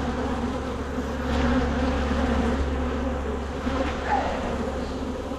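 Many honeybees buzzing steadily around an open hive as its frames are inspected.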